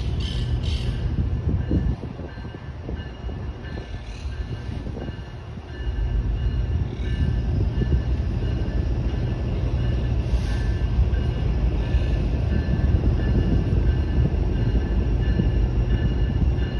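Union Pacific freight train rolling through a level crossing: a steady low rumble of cars on the rails. It eases off about two seconds in and comes back louder and steady from about six seconds, with faint high tones above it.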